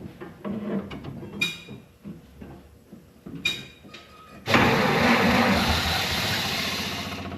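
A 1927 Dodge Brothers Fast Four's four-cylinder engine being started after its firing order was reset to 1-3-4-2: a few small clicks and knocks, then about four and a half seconds in the engine comes in suddenly and loud and keeps running with an even pulse, dipping briefly near the end.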